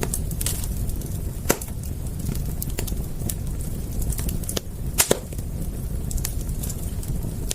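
Wood fire crackling: scattered sharp pops and snaps over a steady low rumble of burning, with louder pops about a second and a half in and about five seconds in.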